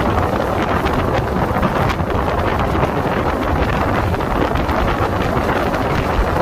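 Push-pull Rajdhani Express train running at speed, a steady loud rumble with scattered sharp clicks, and wind buffeting the microphone.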